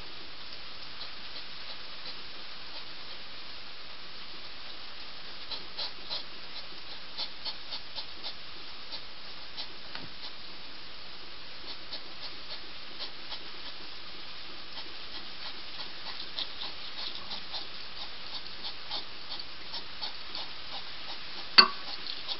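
Steady hiss of heavy rain with scattered light ticks and clicks. Near the end, one sharp, loud click as a hedgehog bites into a dish of dry food, followed by softer clicks of it eating.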